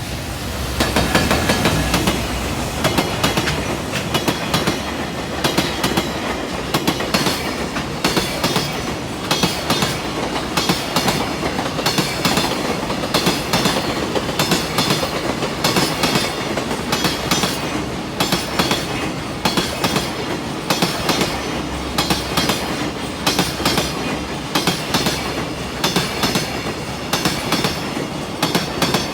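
Freight train passing close by, its wagons' wheels clattering steadily over the rail joints in a regular clickety-clack.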